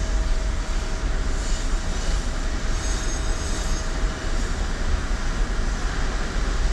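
Steady rumble and hiss of a car idling in the queue at a car wash, with a faint steady whine running through it.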